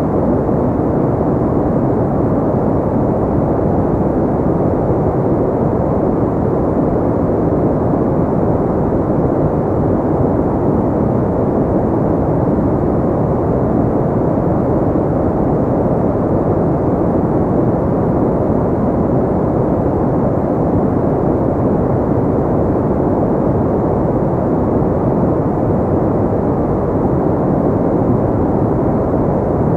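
Steady, unchanging noise track, deep and muffled, with little treble.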